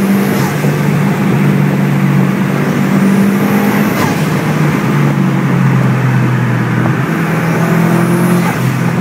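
Turbocharged car engine pulling hard at speed, heard from inside the cabin over loud road noise, its pitch shifting up and down a few times.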